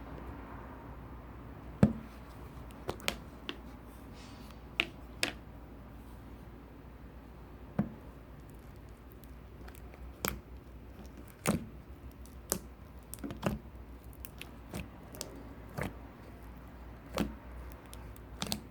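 Slime being squished and pressed by hand, giving irregular sharp clicks and pops, the loudest about two seconds in.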